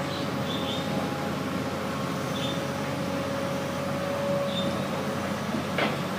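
Diesel engine running steadily with a constant whine above its hum. There are a few short high squeaks and a sharp click near the end.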